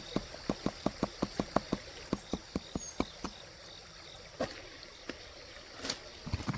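Knife chopping on a cutting board in quick, even strokes, about six a second for the first three seconds, then stopping, with two single knocks later on.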